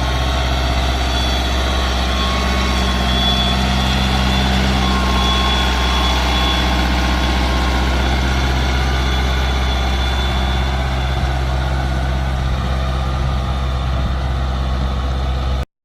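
A mini tractor's engine runs steadily with a deep, even hum. It drops out abruptly for a moment just before the end.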